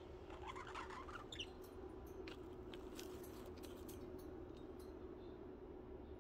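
Pet budgies twittering quietly now and then, with a few faint clicks, over a steady low hum.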